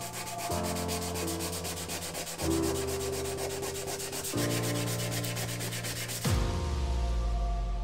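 A power sander working against a steel car body panel: a steady, fast rasp that stops about six seconds in, with a low thump as it ends. Piano background music plays underneath.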